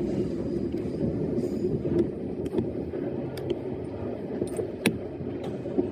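E131-series electric train running, a steady rumble of wheels on rail heard from the front of the train, with a few short sharp clicks scattered through it.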